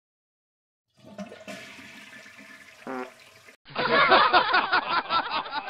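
A toilet flushing, water rushing and gurgling, loud from about two-thirds of the way in. Before it comes a second of dead silence and then only faint room sound.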